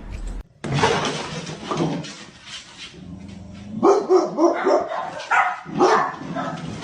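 A dog barking: a quick run of about six short, fairly high barks starting about four seconds in, after a stretch of scuffling noise.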